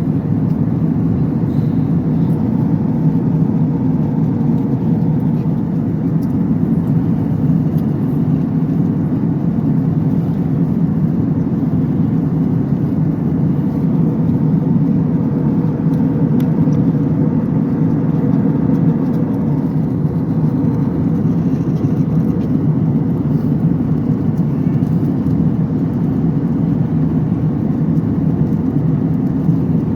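Airliner cabin noise in flight: the steady, unchanging drone of the engines and airflow heard from a passenger seat.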